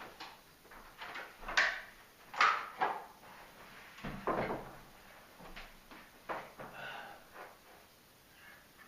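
Household rummaging: several knocks and clatters, like cupboard doors or drawers being opened and shut, the loudest about one and a half and two and a half seconds in.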